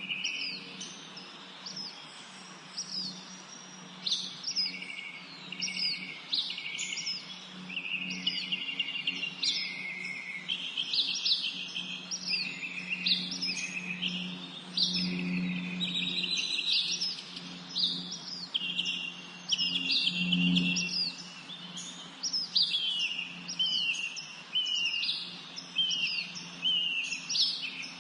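Several songbirds singing and chirping at once, a dense run of short, quick notes, many of them sweeping downward, with no break. A steady low hum runs underneath.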